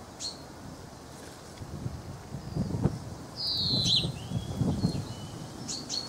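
Small birds calling: short high chirps near the start and end, and one louder descending call in the middle. Under them are low rustling and buffeting noises, with one sharp click.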